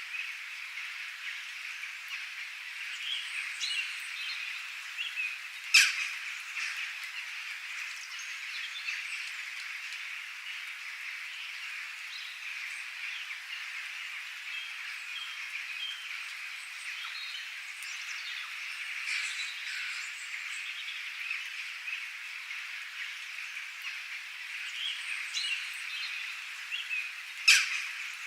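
Outdoor nature ambience of many birds calling over a steady, dense background chorus, with scattered short chirps. Two sharp, loud calls stand out, about six seconds in and near the end.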